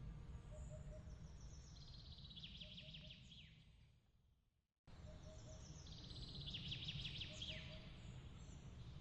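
Faint bird chirps and rapid high trills over a steady low rumble, with small repeated pips in the background. About four seconds in, the sound fades out, then cuts back in abruptly and the same chirping pattern repeats, the seam of a looped ambience track.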